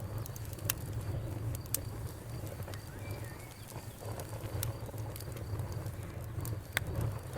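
Wood fire crackling: a steady low rumble of the flames with scattered sharp snaps and pops at irregular moments.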